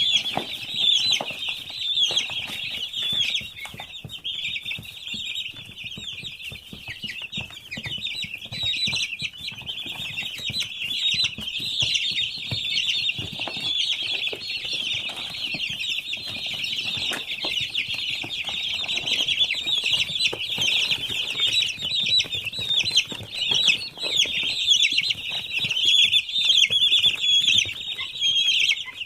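A large flock of young chicks peeping continuously, many high calls overlapping into a steady chorus.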